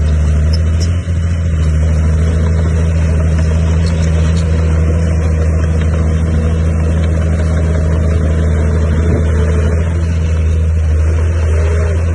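Heavy diesel construction machine engine running steadily with a loud, constant low drone. A faint wavering whine sits above the drone.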